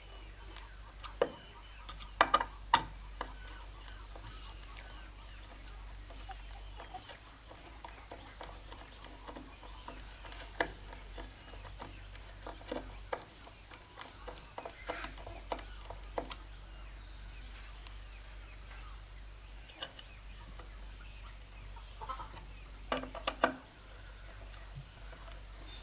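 Chickens clucking now and then, mixed with scattered short knocks.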